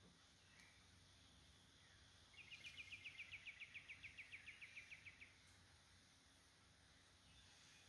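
A small songbird's trill: a run of about twenty quick, clipped notes, roughly seven a second, lasting about three seconds and starting a couple of seconds in.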